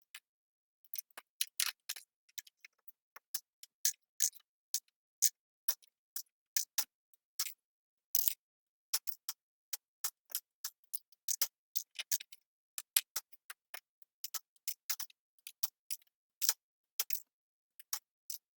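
Small plastic Lego bricks clicking and clattering as they are handled, pressed or pulled apart, in irregular sharp clicks a few times a second with silence between.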